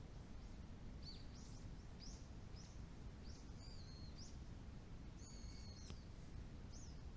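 Songbirds chirping: a run of short, high chirps starting about a second in, with two longer, more complex calls in the middle, over a faint steady low rumble.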